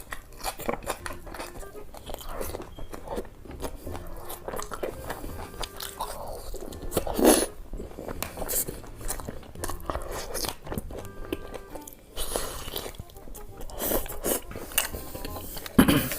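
Close-miked eating: crunchy bites and chewing, many short crackles, with louder crunches about seven seconds in and near the end.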